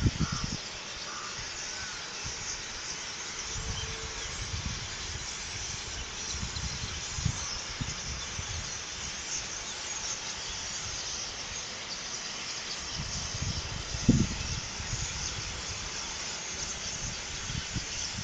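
Steady high-pitched chirring of insects such as crickets or grasshoppers, with gusts of wind buffeting the microphone now and then, the strongest a little past the middle.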